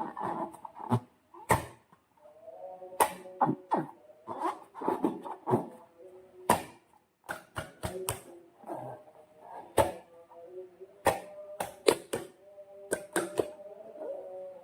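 Slime being squished and stretched by hand: irregular sticky clicks and snaps, with wavering squeaks between them.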